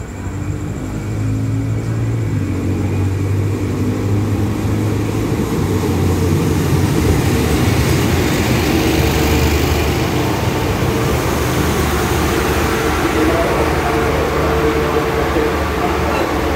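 Diesel-hauled express passenger train pulling into a station. The locomotive's low engine hum passes in the first few seconds, then the steel coaches roll slowly alongside and the train comes to a stop.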